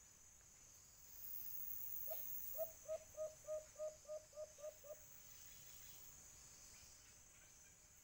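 White-eared brown dove calling: a series of about ten low hooting notes lasting about three seconds, quickening slightly and fading toward the end. A steady high insect drone runs underneath.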